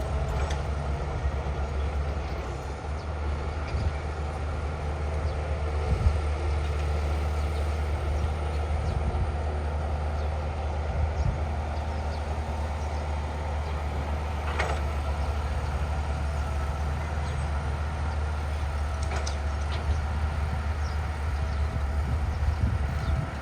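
Diesel engine of heavy earthmoving machinery running steadily with a deep drone, with a few short knocks, the sharpest about two thirds of the way through.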